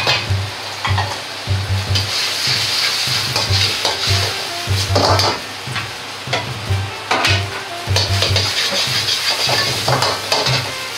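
Beaten egg sizzling in hot oil in a wok. The sizzle swells and eases in waves while a metal wok ladle scrapes and knocks against the pan, stirring and scrambling the egg.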